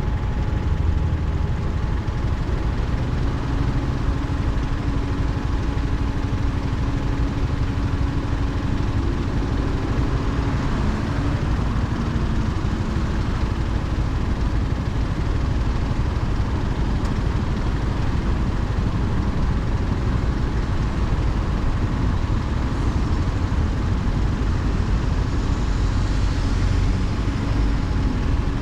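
Motorcycle engine running under steady road and wind noise, its low engine note showing for a few seconds at a time.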